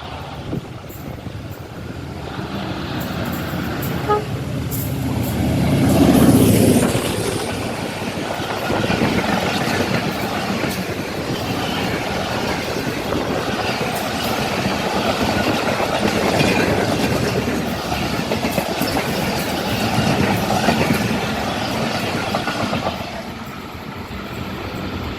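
Express passenger train passing at speed behind a ZCU-30 diesel locomotive. The engine's sound builds and is loudest about six seconds in, then the coaches rumble and rattle past on the rails for most of the rest, easing off near the end.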